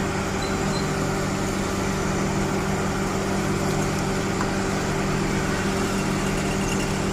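An engine running steadily at a constant speed, a continuous hum with a few steady low tones.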